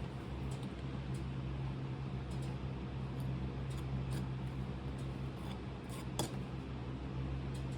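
Steady low hum with a few faint, scattered clicks and light taps, the clearest about six seconds in.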